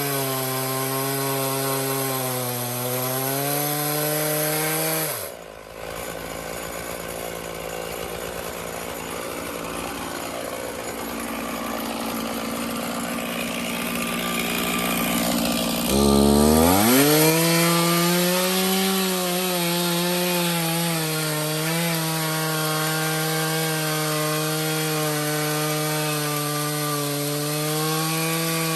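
Stihl MS461 chainsaw on an Alaskan mill cutting through a cedar log at high revs. About five seconds in, the throttle drops to idle. Around sixteen seconds in, it revs back up with a rising whine and carries on cutting under load.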